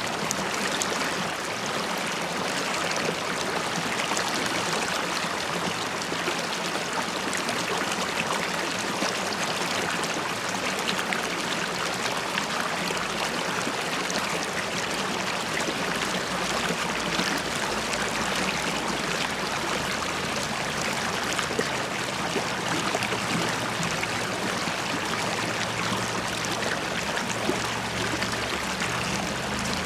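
River water running steadily over stones, bubbling and gurgling with a constant splashing rush.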